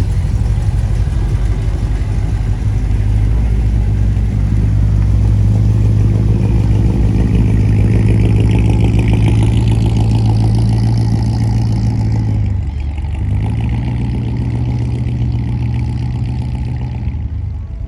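A car engine running loudly, its sound building and rising in pitch, then briefly dropping about twelve seconds in before picking up again. It falls away near the end.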